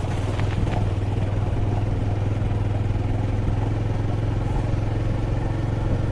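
Motorcycle engine running steadily under way, a constant low hum with road and wind noise.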